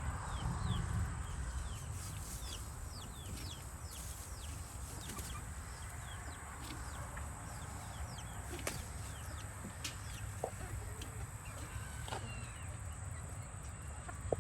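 A flock of backyard chickens clucking, with many short, high chirps that fall in pitch scattered throughout.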